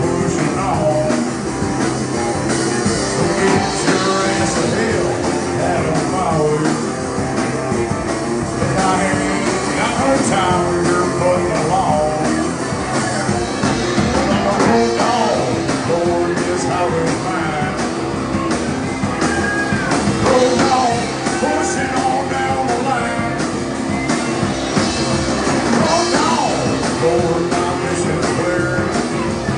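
Live band playing a loud rock and roll song, with singing over guitar and drums.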